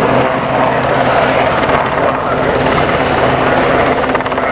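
Search-and-rescue helicopter hovering, its rotors and engines running with a loud, steady drone during a winching demonstration.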